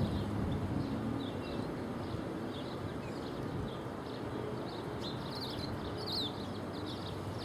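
Small birds chirping, many short high calls scattered through the whole stretch, over a steady low background rumble.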